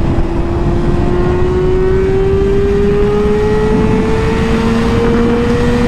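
Motorcycle engine accelerating steadily, its pitch rising slowly and evenly as the revs climb, over a heavy low rush of wind and road noise.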